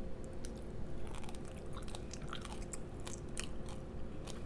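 Close-miked eating of crab: wet chewing and biting, with many small irregular clicks and crackles, over a steady low hum.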